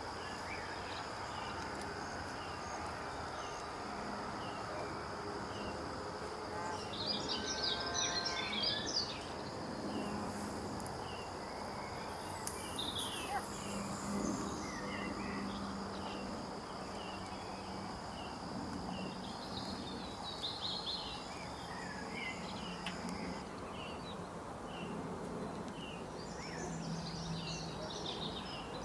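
Insects calling with a steady high-pitched tone that stops about three-quarters of the way through, over repeated short bird chirps, with a few louder flurries of bird calls.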